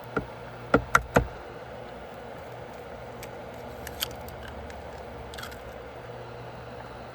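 Four sharp knocks in quick succession within the first second or so, then a few faint clicks, over a steady low hum.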